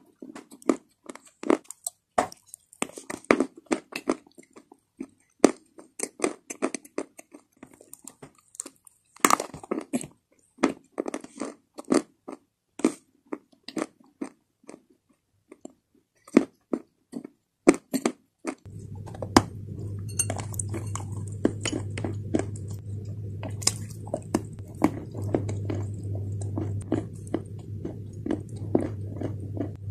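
Close-up crunching and chewing of hard, dry clay, with many sharp, irregular crunches. About two-thirds through, a steady low hum comes in under the chewing.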